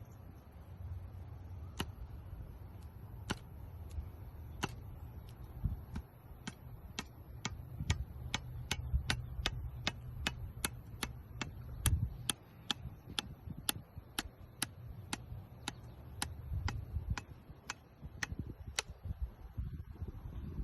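A series of sharp clicks or taps over a low rumble. They come about a second and a half apart at first, then quicken to two or three a second, and slow again near the end.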